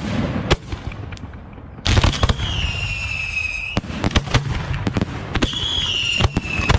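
Fireworks display: a rapid, irregular string of sharp bangs and crackles. A high whistle, falling slightly in pitch, sounds twice over the bangs, each time for more than a second.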